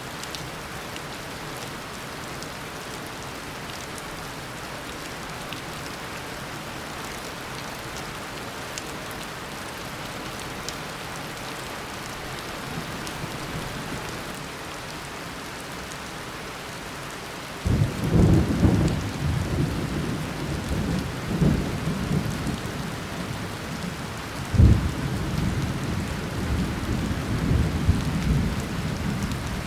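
Steady heavy tropical rain pouring down. Past the halfway point a thunderclap breaks in suddenly and rumbles on, with a second sharp crack a few seconds later, easing off near the end.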